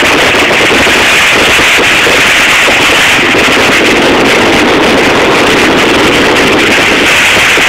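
Fireworks going off in a dense, continuous barrage of bangs and crackling, loud and unbroken.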